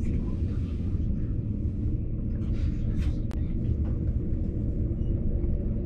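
Steady low rumble of a train running slowly along a station platform, heard from on board, with a single sharp click a little after three seconds in.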